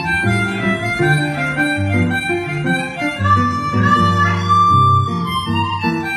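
Live instrumental music: a harmonica plays the melody over guitar accompaniment, holding one long note a little past the middle.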